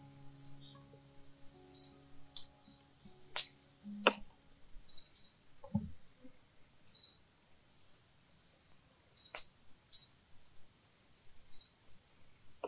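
Small bird chirping over and over in short, high notes, often in pairs. A few sharp clicks and a dull knock come from knife work on the vegetable stalks. Held music notes fade out in the first few seconds.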